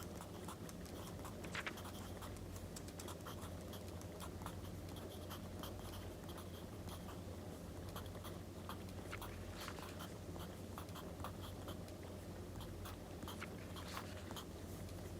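Wood fire crackling with scattered small irregular pops, together with the scratch of writing on paper, over a steady low hum.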